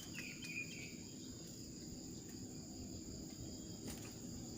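Insects droning steadily in two high, unbroken tones, over a low outdoor background hum. A short falling chirp comes in the first second.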